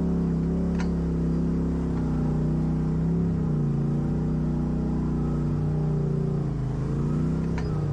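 Off-road vehicle engine running at low, fairly steady revs, its pitch sagging briefly a little after three seconds and again near the end as if under load, with a couple of faint clicks.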